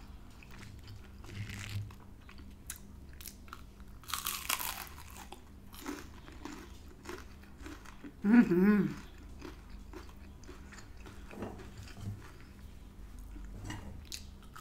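A person biting and chewing a crunchy battered onion ring, with one loud crunching bite about four seconds in and small chewing clicks around it. A short hum of the voice comes about eight seconds in.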